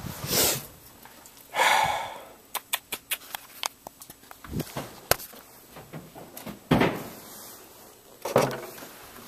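Scattered clicks, knocks and a few short scrapes and whooshes, like things being picked up, moved and set down by hand.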